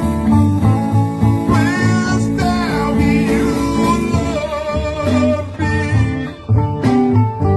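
Blues band playing live: guitar over a steady, pulsing bass line, with a lead line bending up and down in pitch a couple of seconds in.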